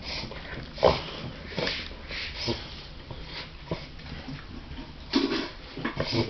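Dog reverse sneezing: a run of harsh, gasping intakes of air through the nose at irregular intervals, the loudest about a second in and another strong one around five seconds in.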